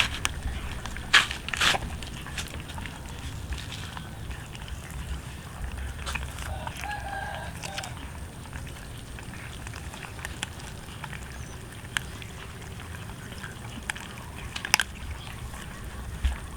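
Cats chewing roast chicken: scattered sharp crunches and clicks over a steady low rumble, with a short faint pitched call about halfway through.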